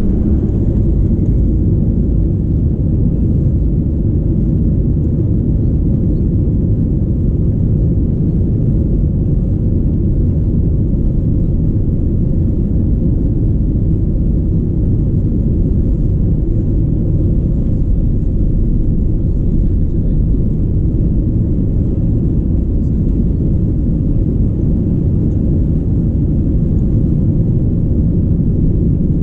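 Steady low rumble of an Airbus A319-114's engines and airflow heard from inside the cabin, even and unchanging.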